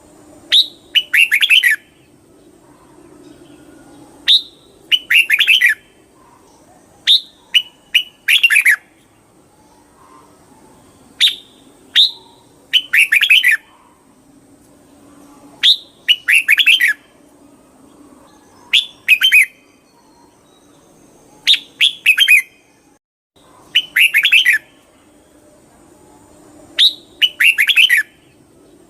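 Red-whiskered bulbul singing: short, clear phrases of a few quick notes, some sweeping downward, repeated about every three seconds.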